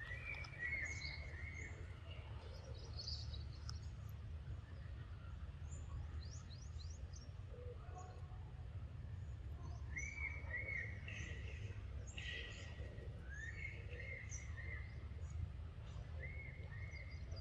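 Birds calling: one repeats a short phrase of a few quick notes several times, with fainter high chirps in between, over a steady low rumble.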